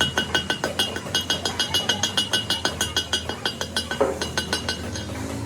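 Rapid, even metal-on-metal strikes, about six or seven a second, each ringing: light hammering or chipping on a steel part. The tapping stops about four seconds in, comes back briefly, then stops.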